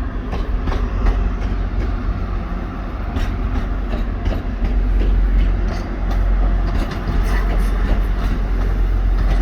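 Diesel passenger train running close past a platform: a heavy low rumble with the clicks of wheels passing over rail joints.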